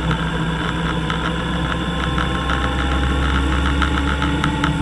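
Motorcycle engine running steadily at low revs, with a fast, regular ticking over its hum.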